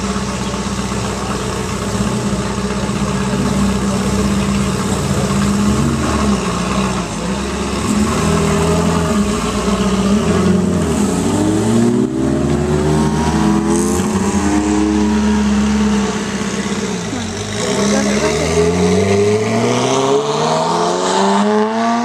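Ferrari F40's twin-turbo V8 running at low revs as the car pulls out, then revving up in rising sweeps as it accelerates away, about halfway through and again near the end.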